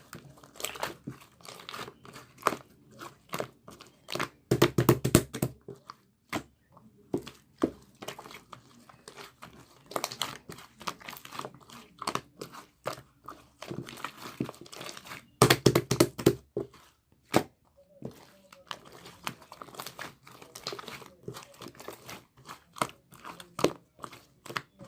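Slime being kneaded and pressed by hand: dense, irregular crackling and popping, with several louder squishing bursts.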